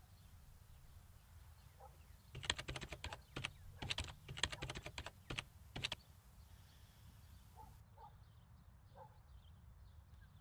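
Typing on a computer keyboard: a quick, irregular run of keystrokes starting about two seconds in and lasting about four seconds.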